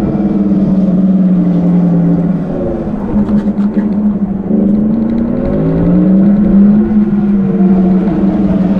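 Tarform Luna electric motorcycle's generated motor sound, a steady humming tone that falls and rises in pitch as the throttle is eased and opened. It is kind of loud, with wind rumble underneath.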